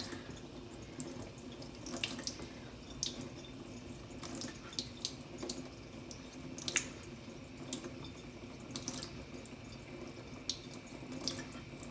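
Tap water running steadily into a sink, with scattered light ticks and drips over it.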